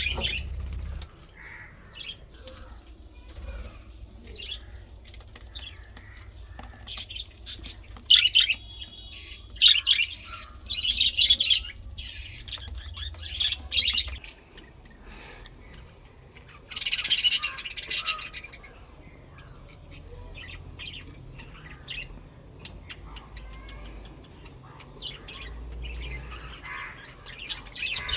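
Budgerigars chirping and chattering in a colony, in bursts of quick high calls that are busiest about a third of the way in and again just past the middle.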